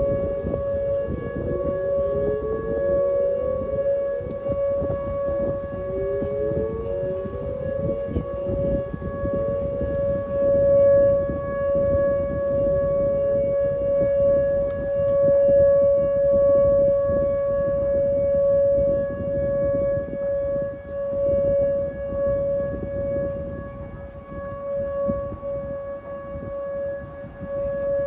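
Duluth's tornado warning sirens sounding during their monthly test: a loud steady tone, with other sirens' pitches sweeping up underneath it during the first half.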